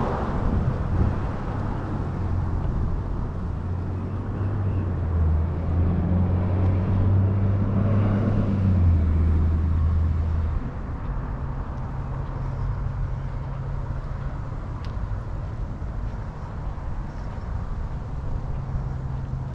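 A car driving: steady engine hum and road noise. It is louder for about the first ten seconds, then settles to a lower steady level.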